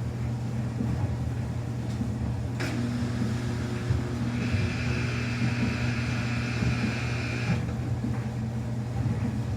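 Samsung washing machine running a quick-wash cycle with a steady low hum. A higher hiss with a whine in it starts sharply about two and a half seconds in and stops about five seconds later.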